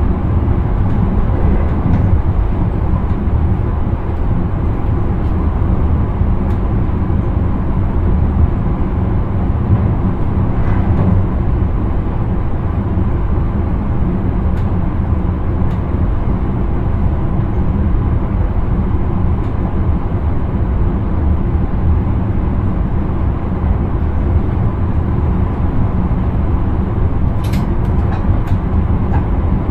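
Steady rumble of an intercity train running along the track, heard from inside the driver's cab, with a few faint ticks near the end.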